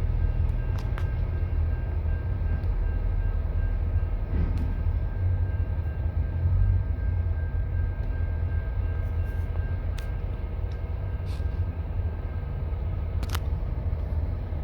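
Canadian National freight train rumbling along the tracks: a steady low rumble, with a faint steady high tone that stops near the end and a few light clicks.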